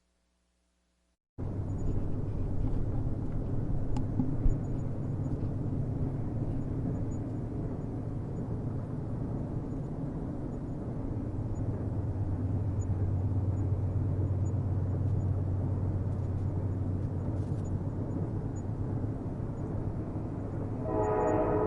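Steady low rumble of a train running on the rails, after about a second of silence at the start. Near the end a train horn starts sounding, several notes at once.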